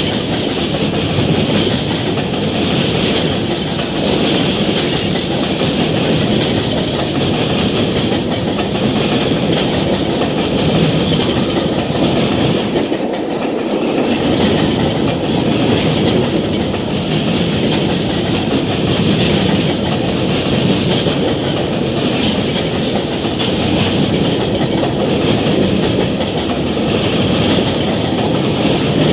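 Covered hopper cars of a Union Pacific grain train rolling past at an even loudness, steel wheels running on the rails.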